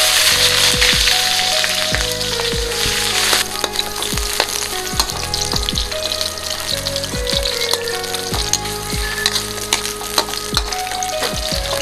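Eggplant frying in hot cooking oil: loud sizzling that drops off sharply about three and a half seconds in, settling to a steady crackle of small pops.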